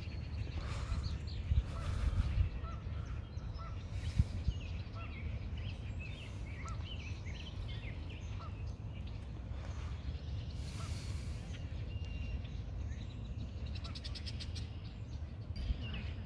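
Outdoor ambience of small birds chirping and calling on and off, over a steady low rumble of wind on a phone microphone. There are a few brief rustling bumps and, near the end, a quick run of clicks.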